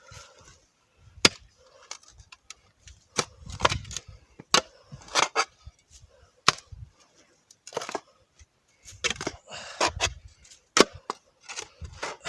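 A digging tool working in wet soil around buried iron: a string of irregular sharp strikes and clinks, with short scraping bursts of earth between them.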